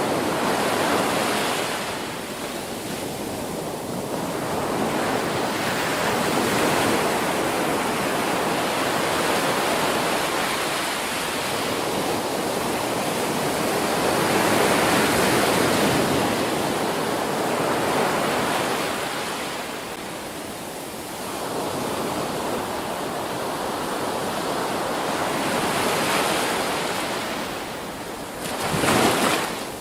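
Ocean surf: waves breaking and washing in, the rush swelling and fading every few seconds, with a sharper, louder wave crash near the end.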